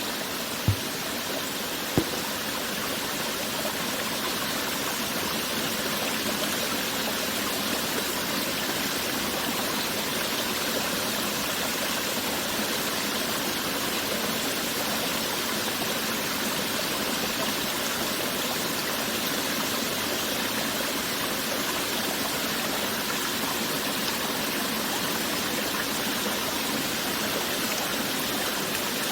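Water running in a stream, a steady rushing and babbling. Two brief soft thumps sound in the first couple of seconds.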